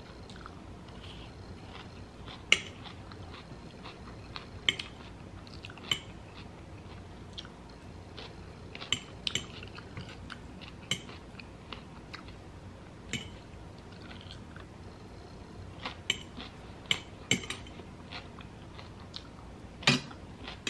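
Close-up chewing of a mouthful of chopped salad and steak. A metal fork clicks and scrapes against the plate about a dozen times, each a sharp, short tap, and these taps are the loudest sounds.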